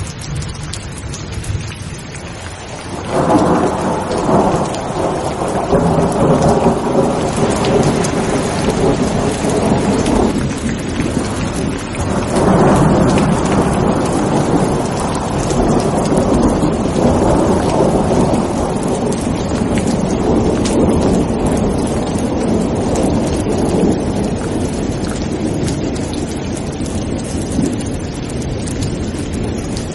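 Steady heavy rain with a long rolling rumble of thunder that swells about three seconds in, dips briefly, builds again and slowly fades away.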